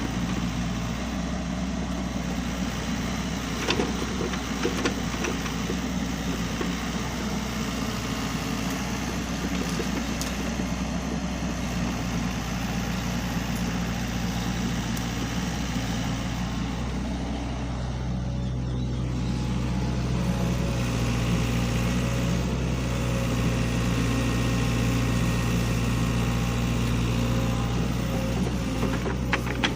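SANY hydraulic excavator's diesel engine running steadily, with a few short knocks; the engine gets louder about two-thirds of the way through.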